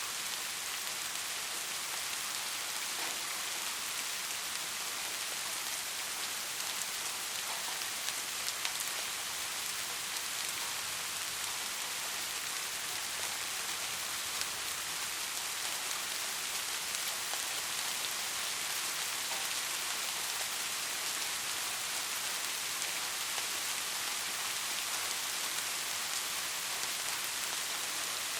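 Steady rain falling: an even hiss with the faint patter of individual drops.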